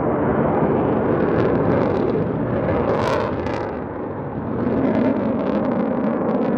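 Eurofighter Typhoon twin jet engines on an afterburner takeoff: a loud, continuous roar with crackling through it, easing briefly about four seconds in before swelling again.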